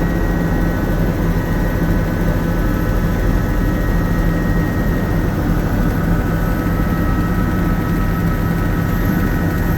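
Helicopter running steadily in flight: a constant loud low drone of engine and rotor with a steady higher whine over it.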